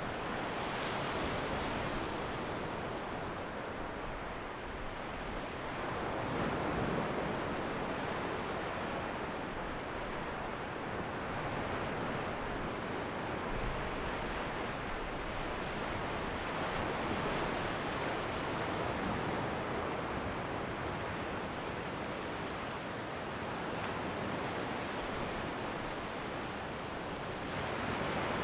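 Ocean waves breaking and washing on the shore in a steady rush, swelling and easing every few seconds.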